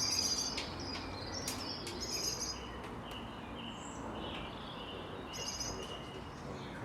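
Birds chirping and singing in repeated short high trills, over a steady background hum, with a few brief clicks.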